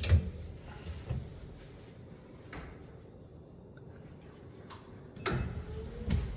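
Windshield wipers with traditional inverted-triangular blades. A couple of knocks in the first second, then quiet; about five seconds in the wipers start, with a steady motor hum and a thud as the blade reverses direction. That thud is the reversal noise of a blade that has deformed.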